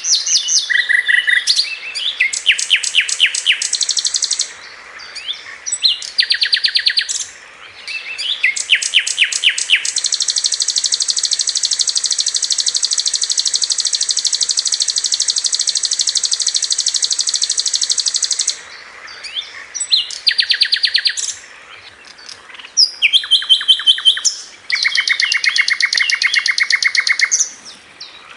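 Sikatan londo flycatcher song in fast, rapid-fire trilled phrases of high repeated notes, broken by short pauses. In the middle comes one long unbroken trill of about eight seconds.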